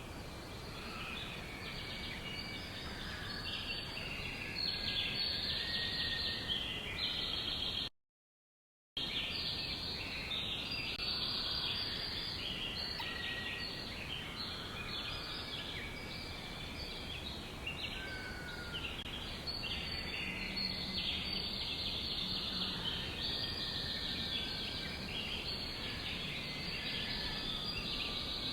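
A dense chorus of many songbirds chirping and trilling over one another, with a few short whistled notes among them. The sound cuts out completely for about a second partway through, then the chorus resumes.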